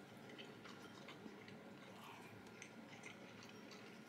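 Near silence with faint chewing: soft, irregular mouth clicks as food is eaten.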